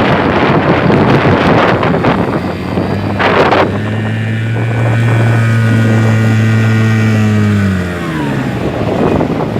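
Hankai 6 outboard motor running steadily under wind noise on the microphone, then dropping in pitch as it is throttled back about eight seconds in. A short rush of noise comes about three seconds in.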